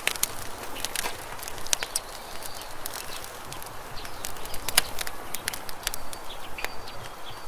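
Campfire burning with a steady hiss and frequent sharp crackles and pops of burning wood, one of the loudest about two-thirds of the way through.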